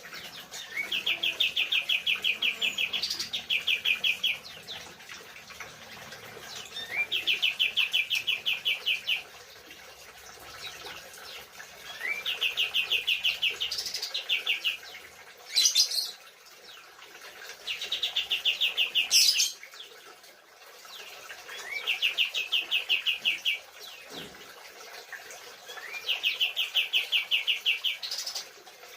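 A kapas tembak songbird singing the same phrase over and over, six times about five seconds apart: a short rising note, a rapid, even trill of about two seconds, then a quick high upslurred note. Two sharp, louder sounds break in about halfway through.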